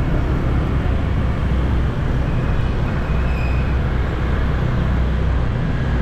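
Motorbike ride through city traffic: the bike's engine running steadily under a constant road and traffic noise.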